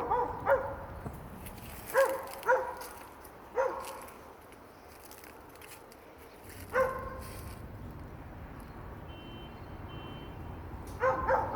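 A dog barking in short single and double barks, with pauses of a few seconds between them.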